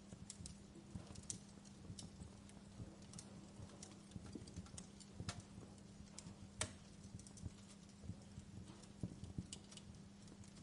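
Wood fire crackling in a fireplace: irregular sharp pops and snaps, with two louder pops a little past halfway, over a steady low hum.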